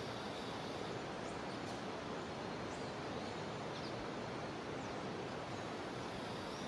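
Jungle river flowing, a steady even rush of water, with cicadas droning faintly and high underneath and a few brief high bird calls.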